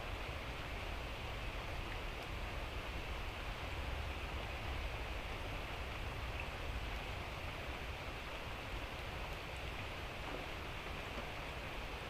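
Steady hiss of light, drizzling rain, with a low rumble underneath.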